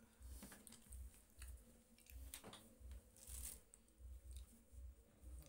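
Faint chewing of grilled sausage, heard as soft low thumps about twice a second with a few small clicks.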